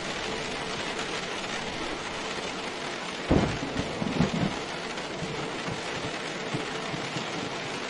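Steady rain falling, with a sudden clap of thunder about three seconds in that rumbles on for about a second before dying away.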